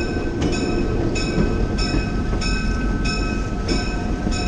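Passenger train running along the track, a steady rumble of the cars heard from aboard, with a faint regular tick about every two-thirds of a second.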